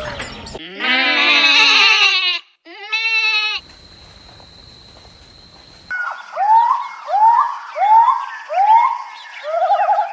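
Goat bleating: a long, wavering call, then a shorter one. After a brief lull comes a run of six short calls, each rising in pitch, with birds twittering behind.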